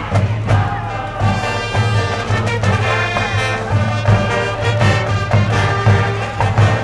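High-school cheering brass band playing a baseball cheer tune, brass carrying the melody over a steady low pulse.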